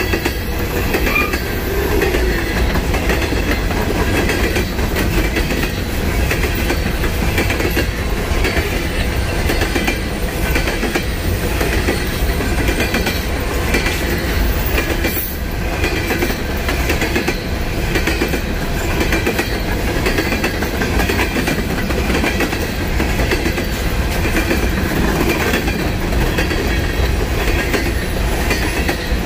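Freight train cars rolling steadily past on the rails, a continuous loud rumble and clatter with no break.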